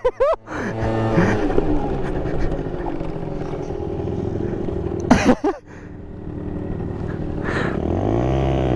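Small motorbike engine running under way, its pitch wandering. About five seconds in there is a sharp knock and the sound briefly drops. Near the end the engine revs up and settles again.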